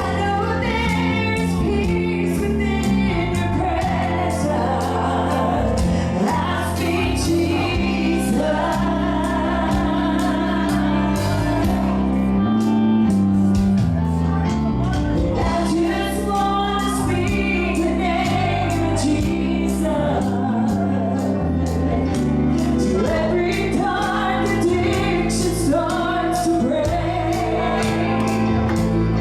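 Gospel worship song with a female lead voice singing over a band with steady drums.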